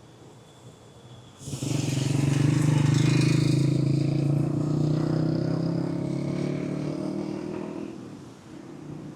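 A motor vehicle engine running close by, coming in suddenly about a second and a half in, loudest for the next couple of seconds, then dying away near the end.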